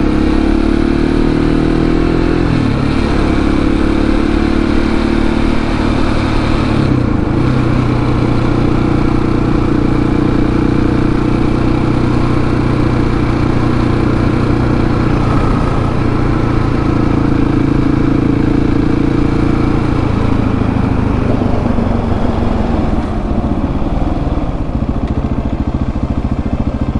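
Single-cylinder 701 supermoto engine running under way, its note stepping in pitch a few times as the rider changes gear and throttle, then easing down gradually about three-quarters of the way through.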